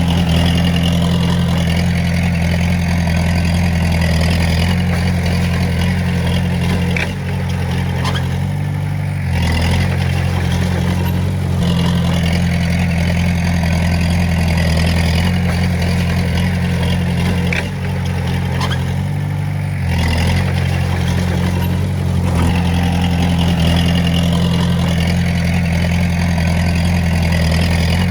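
A Komatsu D20A crawler bulldozer's diesel engine running steadily under load. Its pitch shifts and the level dips briefly twice, about seven and eighteen seconds in, before it settles back to a steady run.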